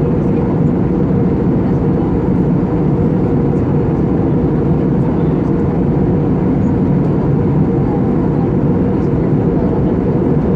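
Steady engine and airflow drone of an Airbus A320-family jet airliner heard from inside the passenger cabin in flight, a constant low rumble.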